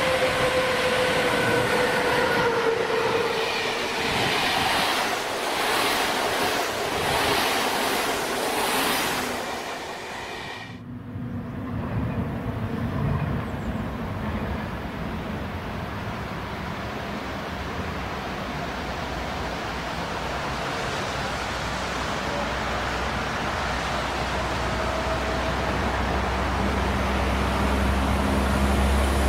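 A train moving at a railway station: in the first third there is a whine that slowly falls in pitch, with repeated clacks. It cuts off abruptly about eleven seconds in, and a lower steady train rumble follows, with a low hum building near the end.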